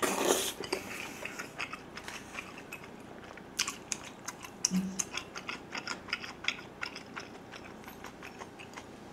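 Close-miked chewing: a man eating a mouthful of food, with many small wet mouth clicks and smacks, and a short low hum about halfway through.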